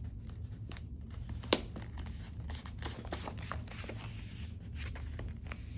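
A large sheet of thick stock paper being bent and creased by hand: crackling and rustling, with one sharp crack about a second and a half in.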